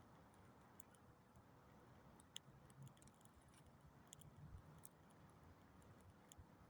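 Campfire burning faintly, with scattered small crackles and pops over a low, steady rumble; the sharpest pop comes about two and a half seconds in.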